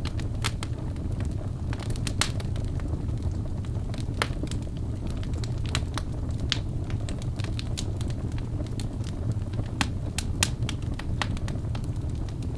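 Wood fire in a fireplace crackling: sharp, irregular pops and snaps over a steady low rumble of the burning fire.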